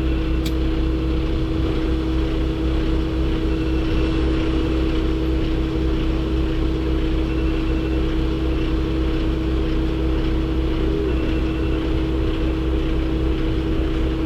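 A vehicle engine running steadily: a constant drone with a low rumble and an even hum that neither rises nor falls.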